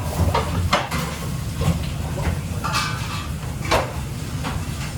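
Kitchen work sounds: a steady low hum with a handful of clinks and knocks of utensils and dishes scattered through.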